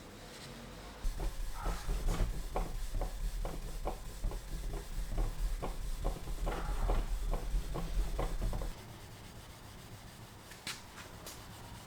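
4/0 steel wool rubbing lightly over a cured polyurethane finish on wood in quick back-and-forth strokes, about two or three a second, knocking the finish back to a semi-gloss sheen. The rubbing stops about three-quarters of the way through, and two light clicks follow.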